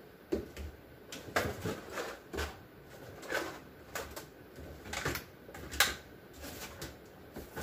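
Plastic Lunchables packs being handled and set down in a fridge drawer: irregular light clicks and knocks, a few every second.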